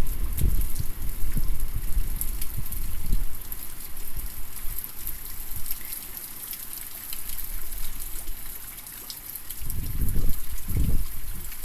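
Typhoon wind gusting against a phone's microphone over steady heavy rain with scattered drips. The gusts ease a few seconds in and come back strongly near the end.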